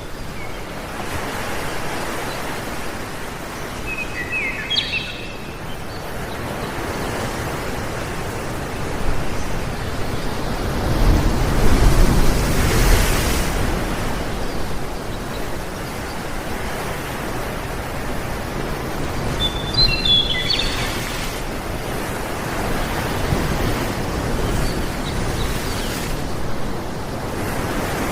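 Steady rushing of wind and water, swelling louder with a low rumble about eleven to thirteen seconds in. A bird gives two short bursts of chirps, about four seconds in and again about twenty seconds in.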